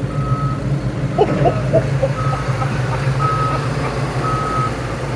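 Large vehicle's engine running low and steady, with a reversing beeper sounding short high beeps about once a second.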